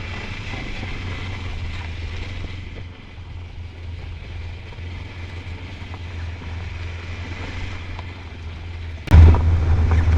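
Motorcycle underway: a steady low engine and wind rumble, which gets suddenly louder about nine seconds in.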